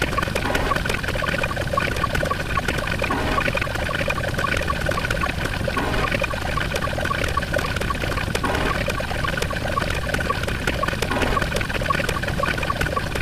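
Sound-effects track of steady rushing, water-like noise with a short beep repeating about four times a second.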